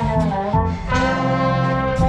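Marching band brass playing the show music: trumpets and trombones on held chords over low brass.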